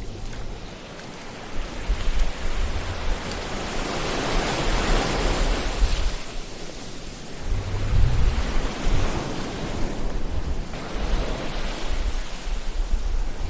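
Ocean surf: waves rushing in and washing back, the hiss swelling about four seconds in and again around eight seconds, with a low rumble under the breaks.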